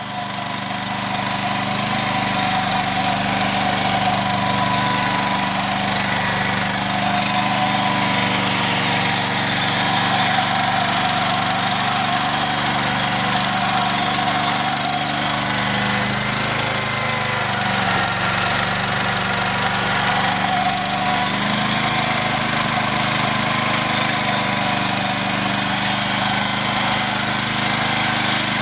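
Garden tractor engine running steadily as it tows a loaded trailer, its note shifting slightly about halfway through.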